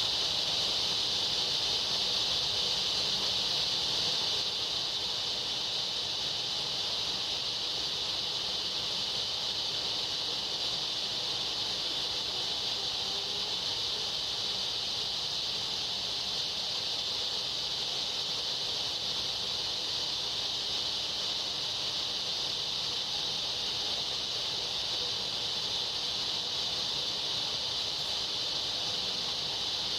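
Steady chorus of evening insects, an unbroken high-pitched drone that sits at an even level throughout.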